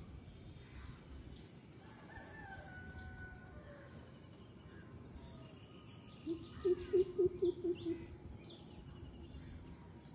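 A bird calls a quick series of about seven low, pulsed notes, loudest in the middle of the stretch, with fainter falling whistled calls from other birds earlier. Insects chirp in a steady pulsing rhythm throughout.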